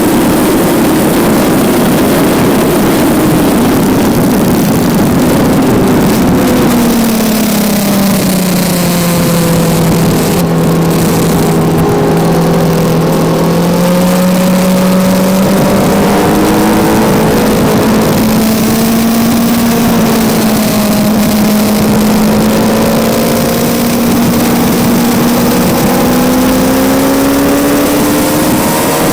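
Kawasaki Z900's inline-four engine heard onboard at track speed under heavy rushing air. The revs fall over several seconds, hold low for a while, then climb slowly and smoothly again as the bike drives on.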